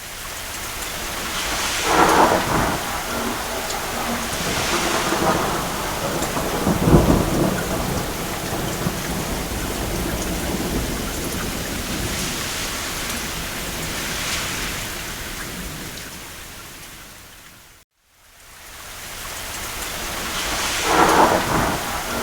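Steady rain with rolls of thunder swelling in and out, the deepest rumble about seven seconds in. The sound fades away to a brief silence near the end, then fades back in.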